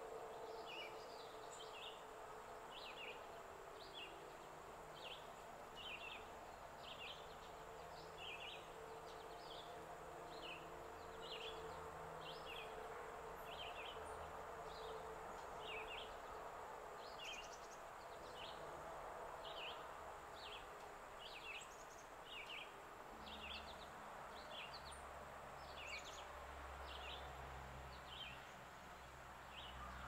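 A small bird giving short, high chip notes over and over, slightly more than one a second, faint, over a low steady background hum.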